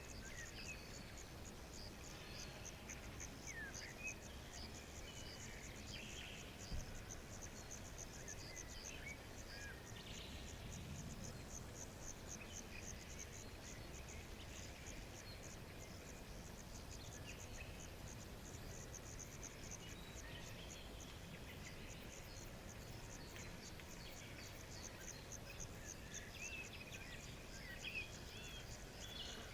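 Night ambience: an insect chirping in a fast, even, high-pitched rhythm throughout, with scattered short bird chirps near the start and again near the end.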